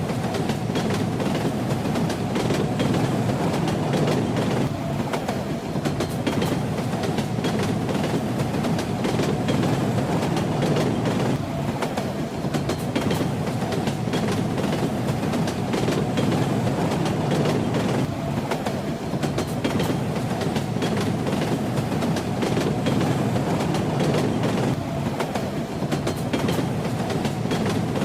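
Train running steadily: a continuous rumble with the clatter of wheels on the rails.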